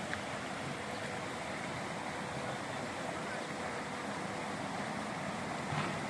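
A steady rushing noise with no clear events, with a faint thin hum throughout and a couple of small clicks near the start and near the end.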